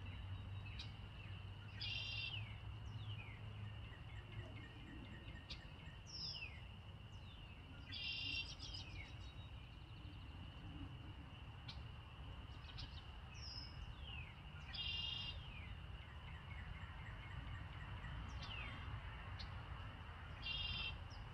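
Songbirds singing faintly over quiet outdoor background. One bird repeats a short phrase of several quick notes four times, about six seconds apart, with thin falling whistled notes in between.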